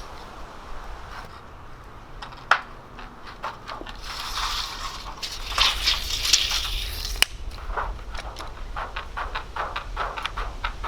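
Work sounds of cedar shake siding being put up: a couple of sharp knocks, a scraping, rustling stretch in the middle as the wooden shakes are handled, then a quick run of light ticks and taps.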